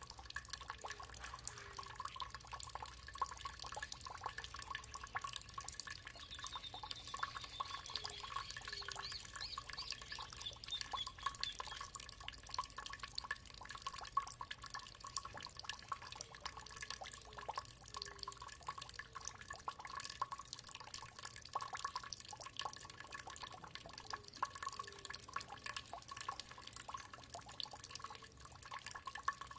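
Water trickling and dripping in many quick small splashes. From about six seconds in, a bird sings a descending run of high notes for several seconds. Soft low notes come and go now and then.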